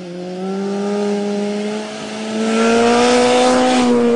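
Vintage racing motorcycle engine accelerating hard, its pitch climbing slowly and steadily and the sound growing louder, with a brief drop in loudness about two seconds in.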